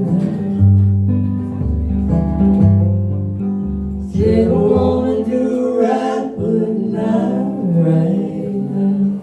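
Live blues band playing the closing bars of a song: guitar over a low bass line, with singing.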